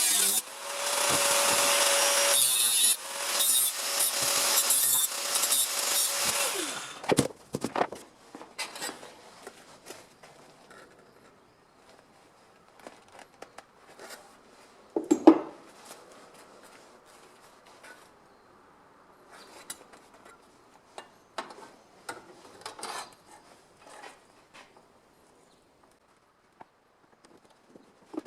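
A power tool cutting the car's sheet-steel body panel for about seven seconds, then stopping. After that come scattered light taps and clinks of metal being handled, with one sharper knock about halfway through.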